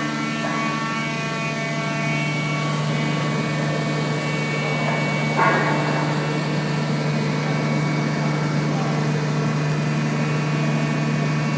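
Peddinghaus CNC sawing and drilling line running with a steady hum and several steady higher tones, with one short knock about five seconds in.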